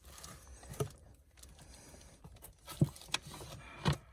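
Handling noise from loose wiring-harness cables and plastic connectors: a few light clicks and knocks with soft rustling.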